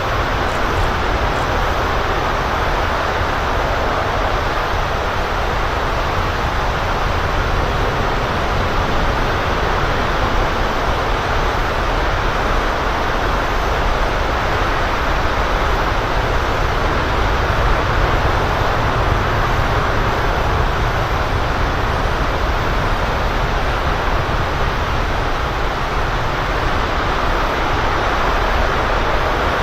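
LE-9 liquid-hydrogen/liquid-oxygen rocket engine firing on a static test stand, heard from afar as a steady, unbroken rushing roar.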